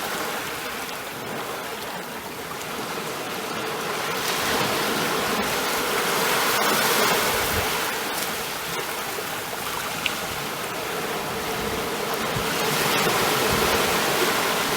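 Ocean waves washing on a shore, a steady rush of surf that swells and eases over several seconds.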